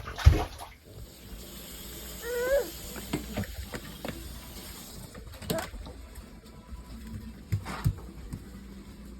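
Running water hissing steadily, with a short rising squeak about two seconds in and a few sharp knocks in the second half.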